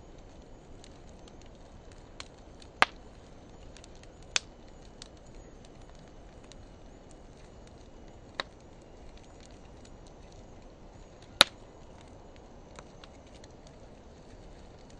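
Wood fire of driftwood and dry hardwood burning with a steady low hiss and scattered crackles. Four sharp pops stand out, the loudest about eleven seconds in.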